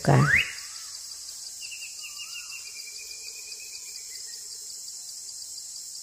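Faint bird calls over a steady high-pitched background drone: a quick series of high notes from about one and a half to four seconds in, with a short lower whistle around two seconds.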